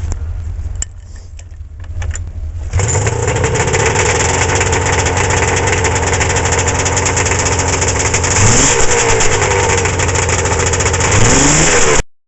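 Arctic Cat Wildcat 700 EFI snowmobile two-stroke engine running through its stock factory muffler. It comes in loud about three seconds in, runs steadily, and is revved twice near the end.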